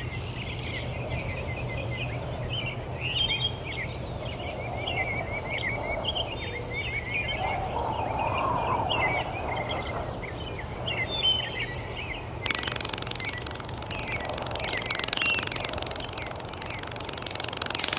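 Many small birds chirping and twittering over a steady low hum. About twelve seconds in, a hiss of noise comes in and continues alongside the birds.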